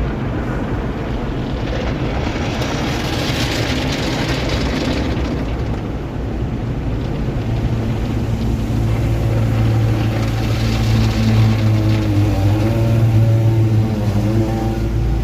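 Steady low engine hum that grows stronger and shifts slightly in pitch in the second half, with two stretches of hissing rush over it.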